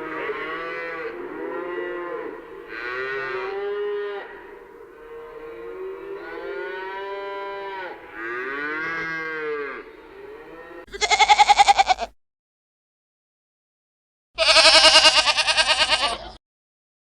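Cattle mooing: a series of drawn-out calls, each a second or two long, rising and falling in pitch. About 11 s in, the mooing stops and two much louder, wavering bleats follow, about two seconds apart, with dead silence between them.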